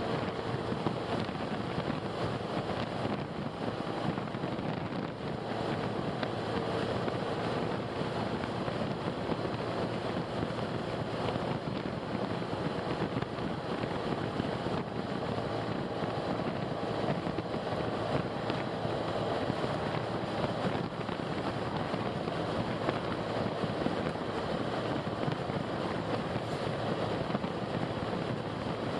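Steady road and engine noise of a car driving, an even rushing with a faint low hum that holds level throughout.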